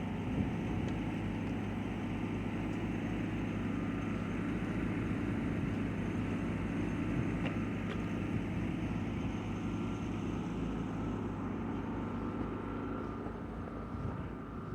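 A steady, unchanging engine hum.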